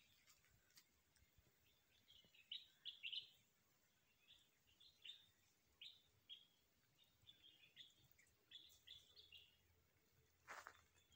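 Faint birdsong: short, high chirps repeated in quick clusters through most of the stretch. A couple of soft knocks come near the end.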